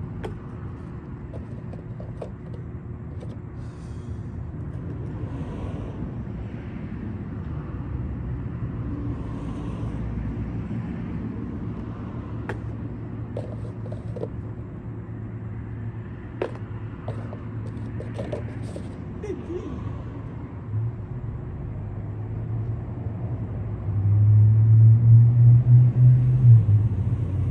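Steady low rumble of a motor vehicle, with a few faint clicks, swelling into a much louder low rumble for a few seconds near the end.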